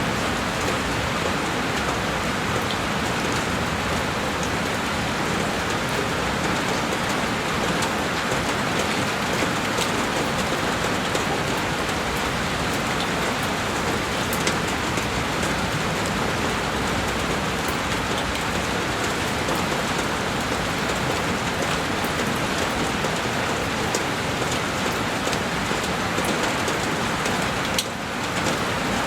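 Heavy rain falling steadily on a window, an even hiss with fine drop ticks scattered through it. There is a brief dip near the end.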